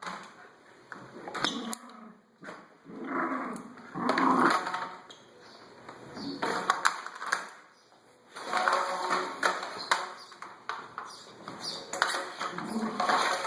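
A schnauzer vocalising in short bursts about five times while playing with a vacuum cleaner, with sharp clicks between the bursts.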